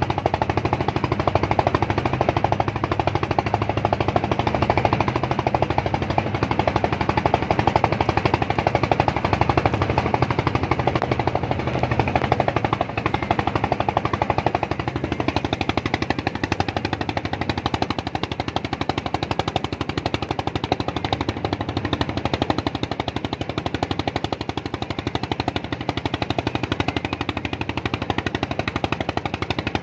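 An engine running steadily with a fast, even putter.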